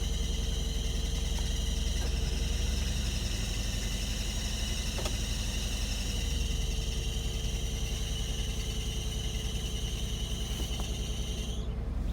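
2000 Infiniti i30's 3.0-litre V6 idling with a steady low, pulsing rumble, under the misfire being traced on it. A steady high-pitched whine runs over it and cuts off suddenly near the end.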